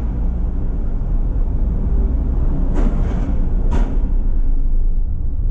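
Steady low engine drone of a large vehicle, with a few short knocks about three to four seconds in.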